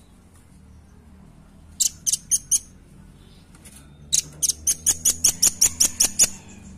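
Velvet-fronted nuthatch calling with sharp, high chips: four about two seconds in, then a fast even run of about eleven, roughly five a second.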